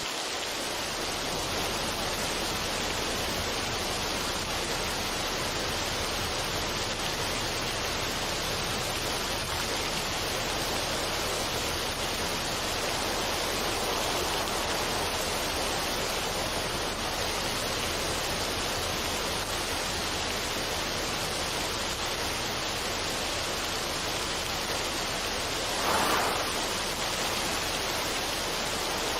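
Steady, even rushing noise with no tune or beat, swelling briefly for about a second near the end.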